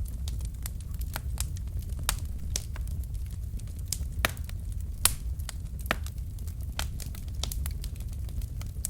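Wood fire burning in a fireplace: irregular sharp pops and snaps of burning logs over a low steady rumble, with the loudest pops about four and five seconds in.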